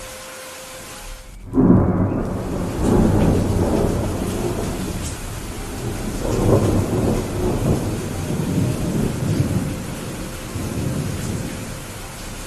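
Steady rain with a thunderclap about a second and a half in, whose deep rumble rolls on in swells and slowly fades away.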